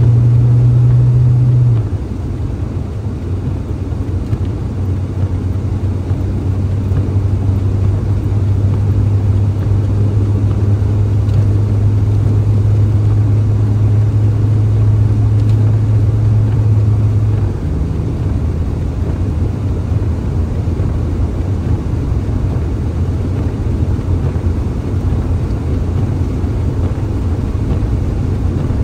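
A car or truck driving: a steady low engine and road drone, which shifts in level and pitch about two seconds in and again a little past halfway.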